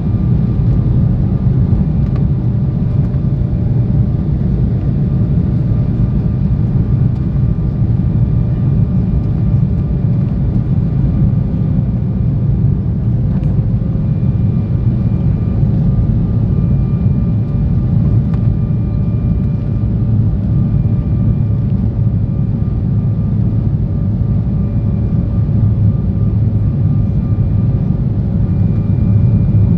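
Cabin noise inside an Embraer E170 jet airliner in flight: a steady, loud low rumble of airflow and its GE CF34 turbofan engines, with a faint engine whine that wavers slightly in pitch.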